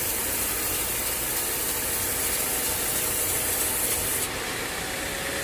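Sawmill machinery running with a steady, noisy hiss. The highest part of the hiss cuts off suddenly about four seconds in.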